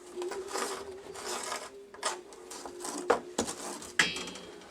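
Pencil scratching along a straight edge in short repeated strokes, drawing a line on the layout board, with a few sharp clicks about three and four seconds in.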